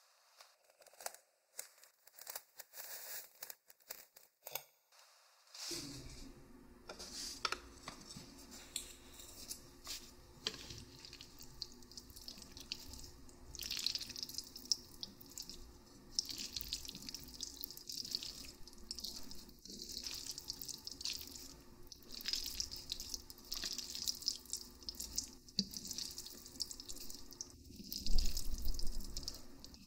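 Close-miked wet eating sounds of sauced instant noodles: sticky smacking, slurping and chewing. It opens with a few sharp clicks and builds to its loudest burst near the end.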